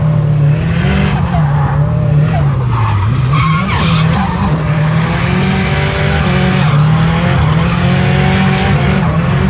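Turbocharged Nissan CA18 inline-four held high in the revs through a drift, heard from inside the car, with the tyres squealing as they slide. The revs dip about three seconds in and climb back.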